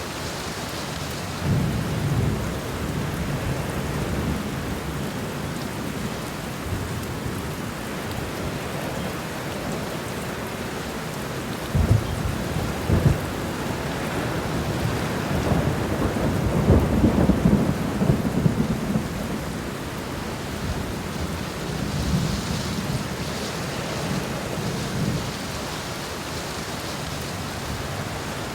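Steady rain falling, with thunder rolling through it: low rumbles come and go, with two sharper claps about halfway and the longest, loudest roll a few seconds later.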